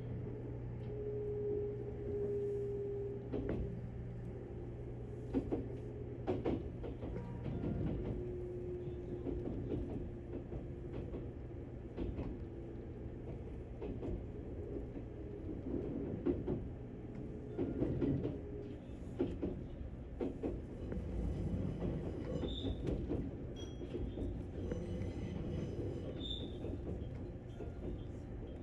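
The interior of a JR Kyushu 783 series electric train car: a steady low hum, a faint whine in places, and scattered clunks and clicks. The hum drops away about halfway through.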